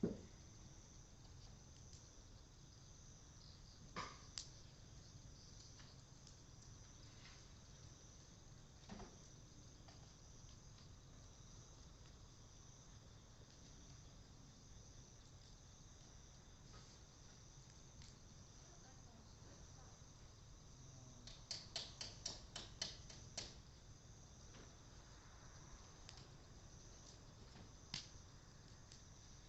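Faint, steady high chirring of crickets and other summer-evening insects, with scattered sharp crackles and pops from a fire of dry Japanese cedar wood. A quick run of pops comes about three-quarters of the way through.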